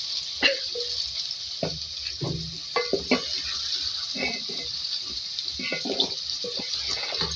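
Cubed bottle gourd sizzling steadily in hot oil in a metal pot, while a wooden spoon stirs the pieces and scrapes against the pot in a string of short strokes.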